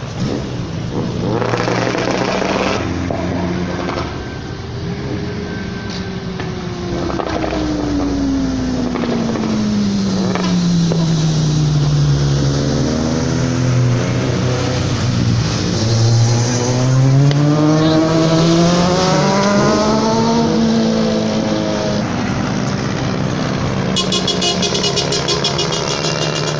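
A motor vehicle engine running, its pitch falling slowly over several seconds and then rising again, with other engines going underneath.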